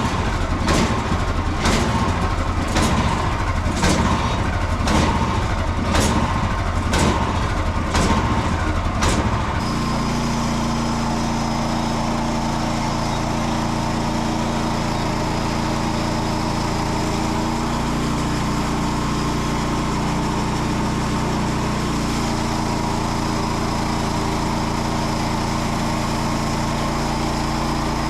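Small petrol engine of a portable bandsaw mill surging and dropping back about once a second, hunting the way an engine does when it is starved of fuel, though there is fuel in the tank and the owner suspects dirt in the fuel system or a clogged air filter. About ten seconds in it settles into a steady, even run.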